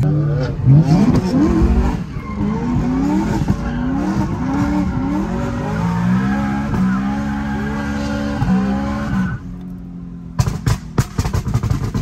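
Supercharged, straight-piped BMW M3 E90 V8 heard from inside the car, revving up and dropping back through a series of gear changes. Near the end it comes off the throttle and a rapid string of sharp exhaust pops follows.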